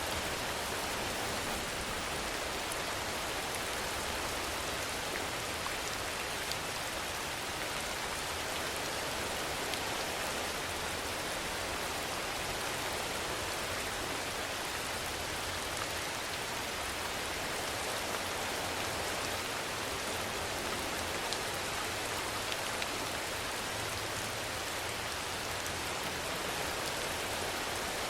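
Steady rainfall: an even, unbroken hiss of rain with faint scattered drop ticks.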